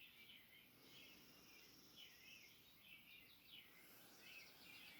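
Faint background birdsong: several birds giving short high chirps, quick slurred notes and a rapid trill, one after another.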